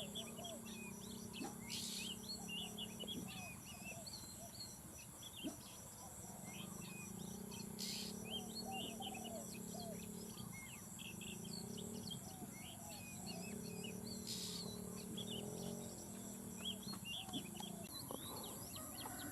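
Small birds chirping and calling in short, scattered notes throughout, with lower warbling calls underneath, over a steady high hiss and a low hum.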